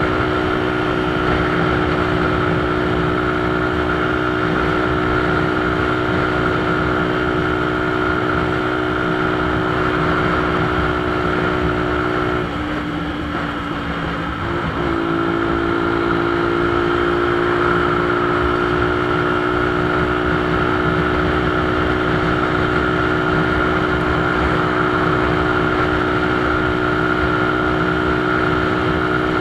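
Motorcycle engine running at a steady cruising speed. About halfway through, the engine note breaks up and drops for a couple of seconds, then settles back to a steady note.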